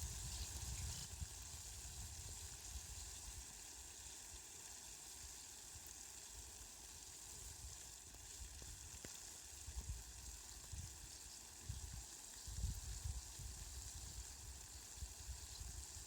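Steady rain falling, an even soft hiss, with a few low rumbles in the second half.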